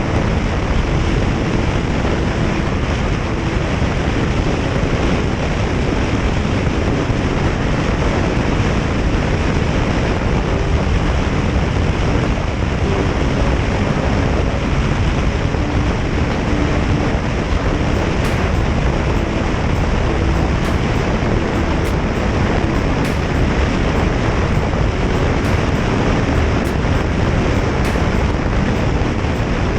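Steady wind rush on the microphone of a moving motorcycle, with the motorcycle's engine running underneath. A few faint ticks come in the second half.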